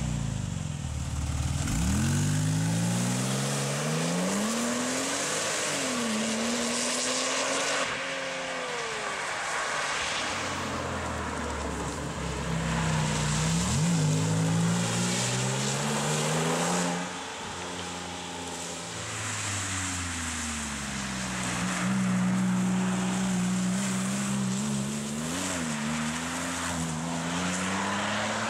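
Porsche 911 (997) Turbo's twin-turbo flat-six pulling through the gears, its pitch climbing and dropping back at each of several shifts, over steady road and wind noise.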